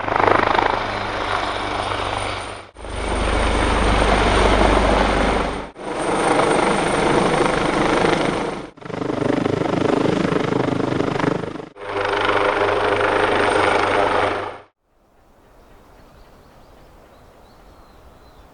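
AW139 helicopter running: the rumble and whine of its two PT6C turboshaft engines and five-bladed rotor. It comes in five short clips of about three seconds each, each ending in an abrupt cut. About fifteen seconds in, it gives way to a much quieter outdoor background.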